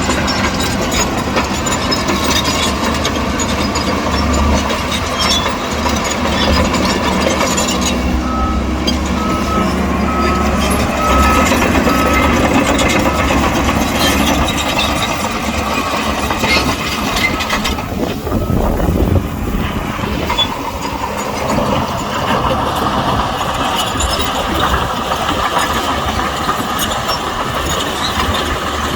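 Heavy diesel engines of a Shantui bulldozer and dump trucks running steadily under load. About a third of the way in, a reversing alarm gives a string of about seven evenly spaced beeps.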